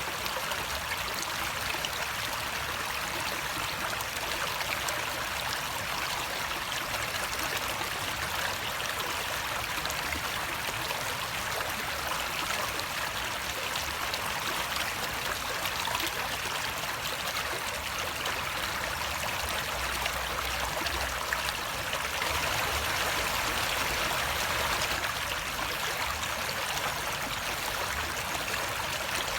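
Running water flowing steadily, an even rushing sound that swells slightly for a few seconds about two-thirds of the way through.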